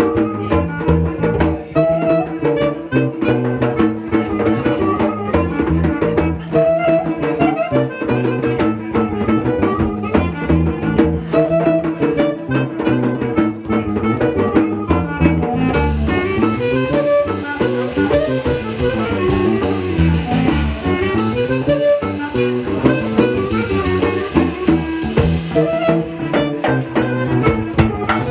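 A jazz trio playing live, with a bass line, drum kit and a melody instrument. The cymbals thicken into a steady wash about halfway through.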